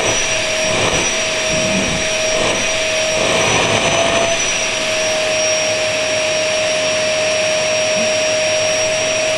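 Vacuum cleaner running steadily, its motor noise carrying a constant high whine, with a few faint soft scuffs in the first half.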